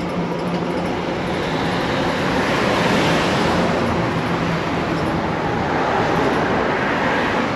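Steady rushing road and traffic noise heard from a moving e-bike beside busy traffic. It swells about three seconds in and again a little later, like vehicles passing.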